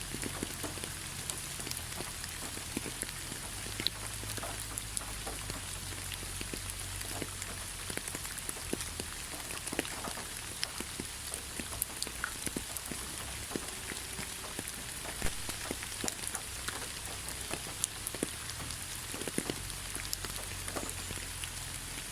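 Steady rain falling in a forest, a continuous hiss with many separate drops ticking and pattering on nearby surfaces.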